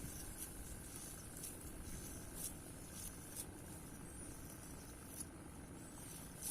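Faint outdoor ambience: a steady high hiss, scattered soft clicks, and a couple of short high chirps in the second half.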